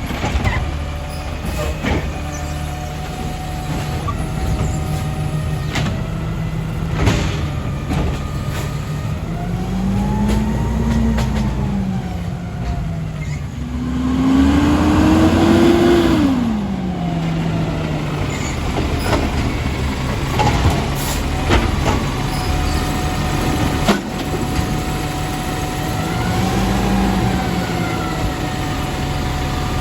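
Garbage truck engine running, revving up and dropping back three times, the loudest rev about halfway through with a rush of noise, and occasional metal clanks.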